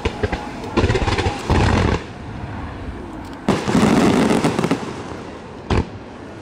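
Fireworks going off: quick bangs and dense crackling in two spells of about a second each, then a single sharp bang near the end.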